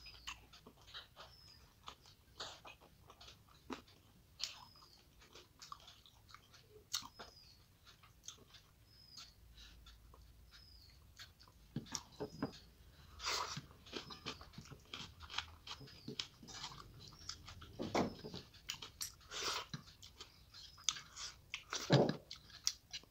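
Close-miked chewing and mouth smacking as rice mixed with curry is eaten by hand, with fingers squishing and scraping the rice across a ceramic plate. There are irregular soft clicks and a few louder wet bites near the end.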